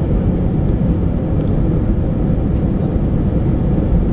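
Airbus A319 jet engines and airframe heard from inside the cabin as a loud, steady, deep rumble during departure.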